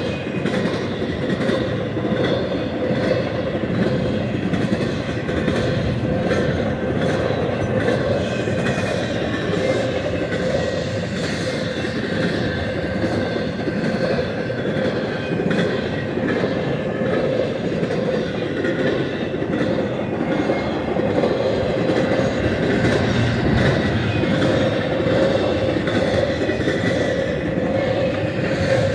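Freight train of empty articulated intermodal spine cars rolling past at steady speed: a continuous rumble and clatter of steel wheels on rail, with a steady ringing tone running through it.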